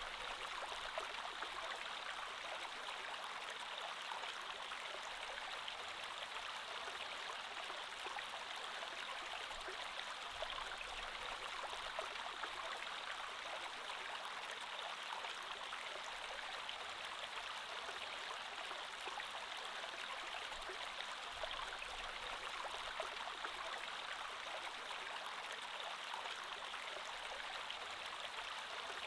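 Creek water flowing steadily: an even, unbroken rush of moving water.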